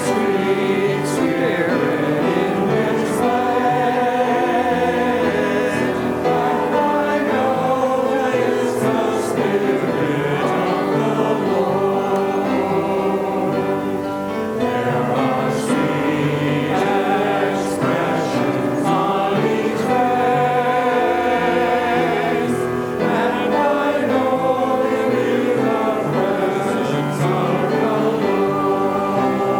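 A church choir singing a sacred piece.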